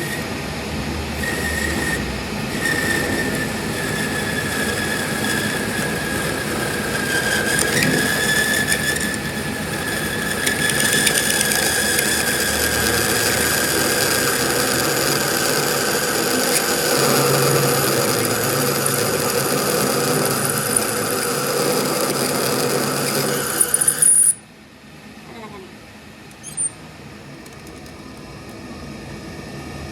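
A workshop machine working metal, with a loud grinding noise and a high squealing whine that slowly drifts down in pitch. It cuts off abruptly about 24 seconds in.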